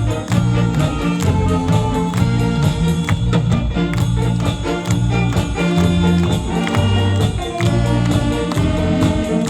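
Saxophone big band playing a medley of Korean popular and trot songs live, with sustained horn lines over a steady beat.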